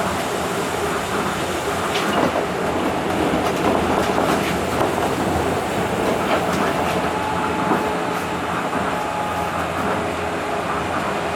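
Tokyo Monorail train running along its guideway, a steady rumble and hiss with scattered clicks, and a faint steady whine a little over two-thirds of the way through.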